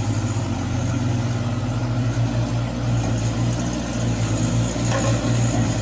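Yellow school buses driving slowly past, their engines running with a steady low hum.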